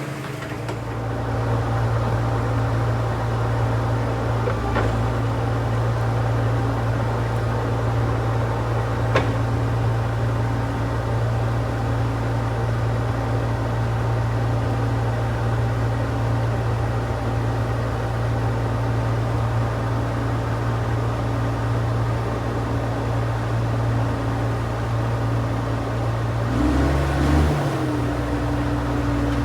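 Heavy earthmoving machine's engine running steadily at a constant pitch. Near the end it revs up briefly and settles back.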